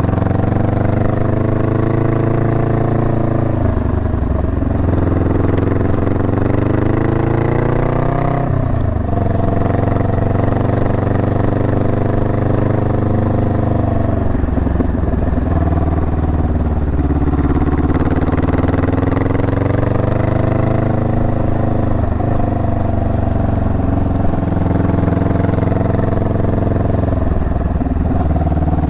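Honda Rebel 500's 471 cc parallel-twin engine running under way, its note rising and falling with the throttle, with about four brief breaks in pitch at gear changes.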